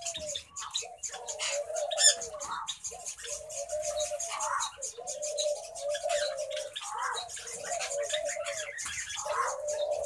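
Birds calling: a series of drawn-out low warbling notes, each about a second long with short gaps between them, and rapid high chirping over them.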